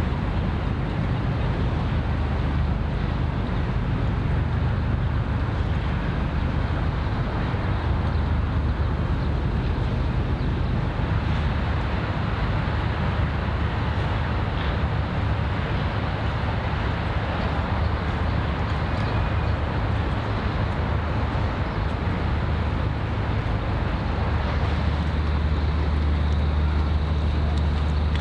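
Steady low engine rumble of a ship, with a constant hum and rushing noise over it.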